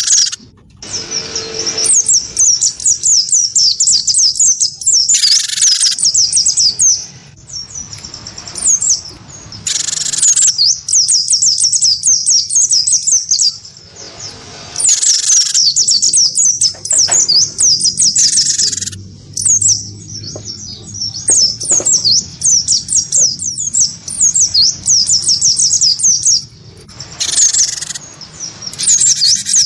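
Caged cinereous tit (gelatik batu) and white-eye (pleci) singing against each other: fast runs of high, falling chirps lasting several seconds, broken by short pauses, with a few louder calls among them.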